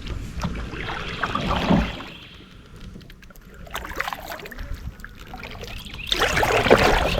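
Kayak paddle dipping and pulling through creek water, splashing and trickling in two main strokes, one about a second in and one near the end.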